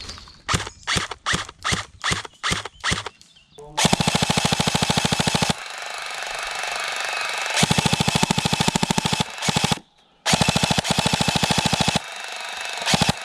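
Airsoft guns firing: a string of single shots, then long full-auto bursts from about four seconds in, stopping and starting several times.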